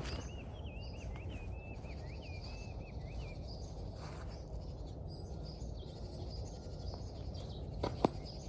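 A small songbird singing a fast warbling run of chirps that stops about three seconds in, over a steady low outdoor background noise. A couple of sharp clicks come near the end.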